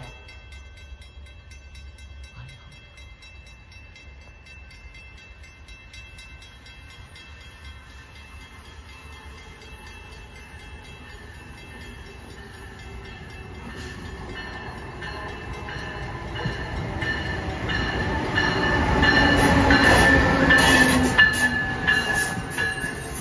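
An Amtrak Siemens ACS-64 electric locomotive and its passenger cars approach and pass. The sound begins faint and grows steadily into a loud rush and rumble of wheels on rail, peaking about twenty seconds in as the train goes by.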